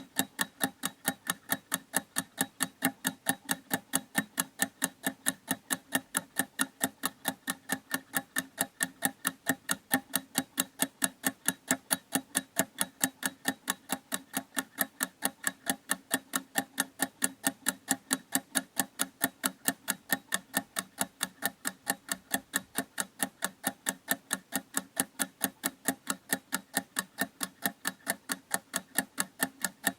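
Clock ticking steadily, with quick, even ticks several times a second.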